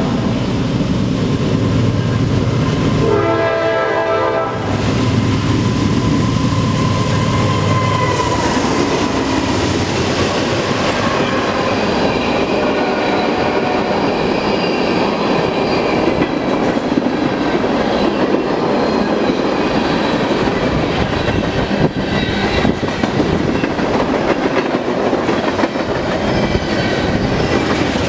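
A train passing: a locomotive horn sounds about three seconds in over the engine's low rumble. The rumble fades after about eight seconds into the steady rush and clickety-clack of rail cars rolling by.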